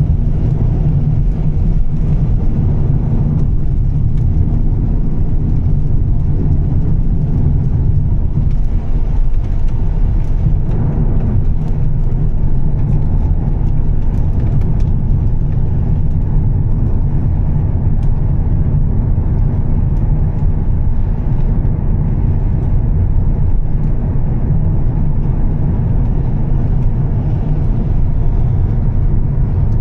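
2013 Volvo S60 T6's turbocharged straight-six with a Heico aftermarket exhaust, a steady low drone while cruising, with the hiss of tyres on a wet road under it.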